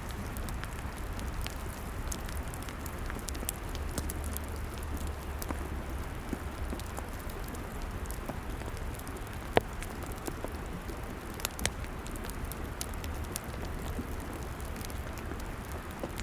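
Log fire crackling: frequent sharp pops and snaps over a steady hiss, with one louder crack about ten seconds in and a low steady rumble underneath.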